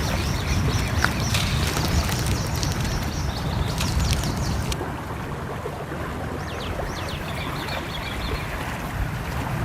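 Nature ambience: a steady rush of a flowing stream, with small birds chirping in short runs of quick notes and the odd crackle of a wood fire.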